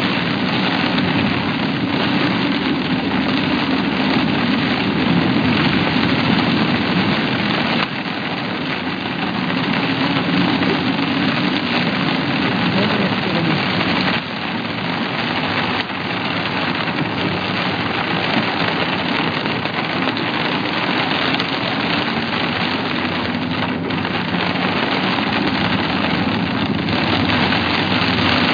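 Steady vehicle noise: an engine running under a dense hiss, with a low hum. The level drops a little about eight and again about fourteen seconds in.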